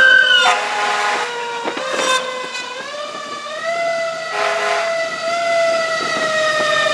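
Fire engine siren wailing, its pitch sliding up and then slowly falling, broken by a short blast about four and a half seconds in.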